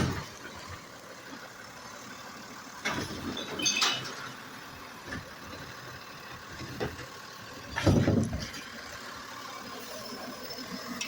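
Recycling truck's engine running, with several knocks and clanks; the loudest comes about eight seconds in.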